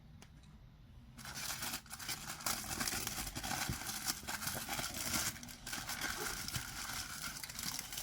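Statue packaging crinkling and rustling as it is handled, starting about a second in, with dense crackles.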